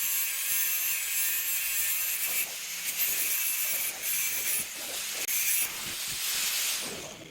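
A power grinder working on a steel rod: a high hissing grind with a thin whine, broken off briefly several times, then winding down and fading near the end.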